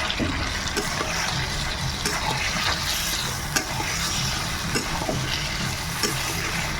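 Chicken pieces, potatoes and spice paste frying in a kadai, with a steady sizzle and a spatula stirring and scraping in short clicks. This is the kosha stage, the meat being fried down in its spices until nearly done.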